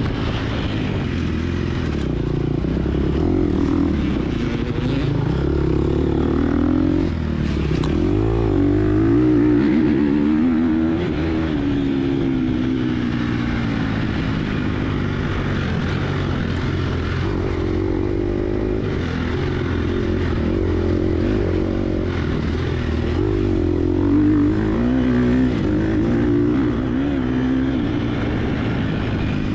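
Gas Gas EX250F four-stroke dirt bike engine under way, its pitch rising and falling repeatedly as the throttle is opened and closed.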